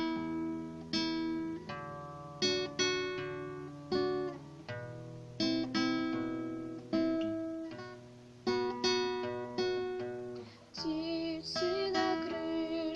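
Acoustic guitar playing an intro of struck chords, about one every second or so. A singing voice comes in with wavering held notes about eleven seconds in.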